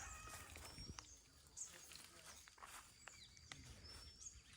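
Quiet rural morning ambience with faint, short, high bird chirps and whistles every second or so, just after a rooster's crow trails off at the very start.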